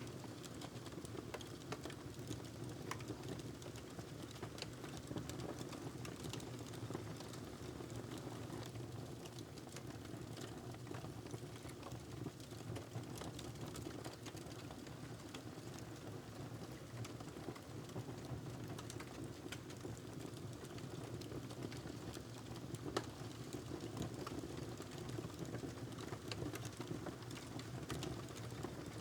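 Wood fire crackling in a fireplace: a steady low rumble of the flames with many small, irregular crackles and one sharper pop about three quarters of the way through.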